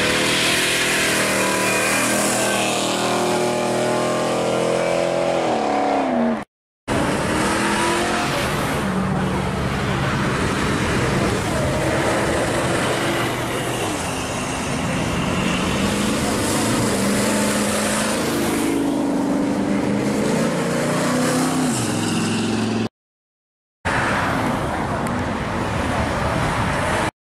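Classic cars and hot rods driving off one after another, each engine note climbing as the car accelerates past. First comes a 1965 Chevrolet Chevelle, then a red hot rod coupe, and near the end a C7 Corvette. The sound cuts out briefly twice between cars.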